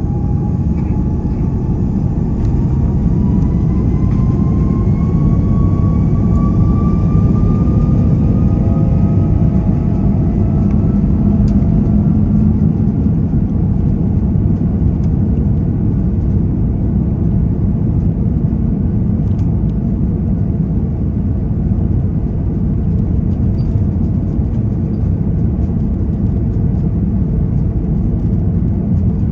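Airbus A330 airliner heard from inside the cabin: a loud, steady engine rumble with a whine that rises slowly in pitch through the first half.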